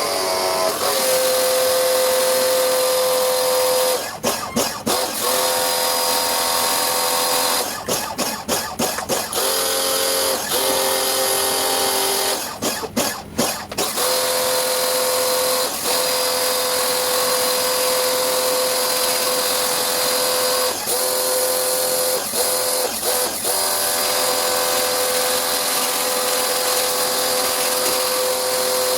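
Electric motor of a power tool running with a steady whine, stopping and starting again several times in the first half, then running on without a break.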